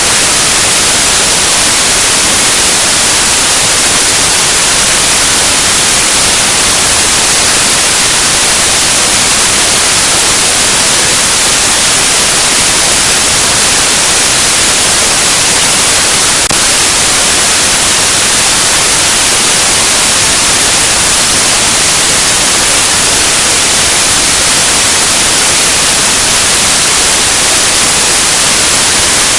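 Loud, steady static hiss like white noise, even and unchanging throughout, with no motorcycle engines or other sounds standing out of it.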